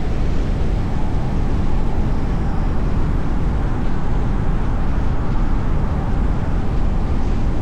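Steady road noise of a moving car: a low, even rumble of tyres and air with no distinct events.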